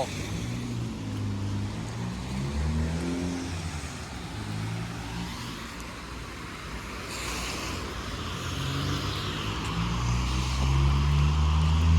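Street traffic on a wet road: motor vehicle engines running with a steady low hum, and tyre hiss from a passing vehicle in the middle. A heavy engine grows louder toward the end.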